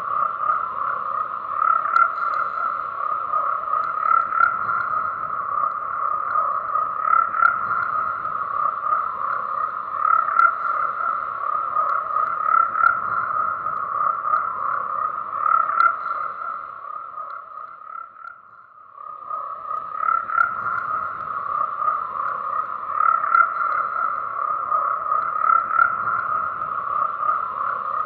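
A dense chorus of frogs croaking continuously, pitched fairly high and even. About two-thirds of the way through it fades down for a couple of seconds, then comes back to full strength.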